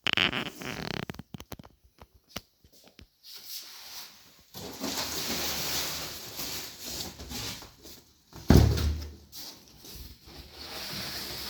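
Handling noises: a run of sharp clicks, then rustling, and a single heavy thump about eight and a half seconds in.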